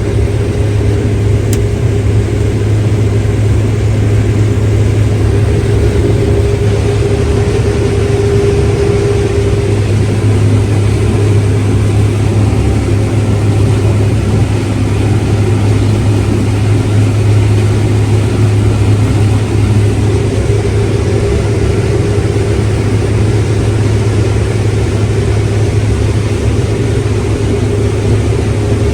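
Diesel engine of large harvest machinery running at a steady drone. A higher steady tone fades out about ten seconds in.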